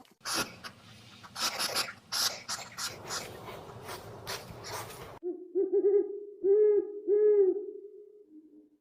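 An animal calling: several seconds of scratchy, noisy rustling, then from about halfway a string of low hoot-like notes, three of them rising and falling in arches, fading out near the end.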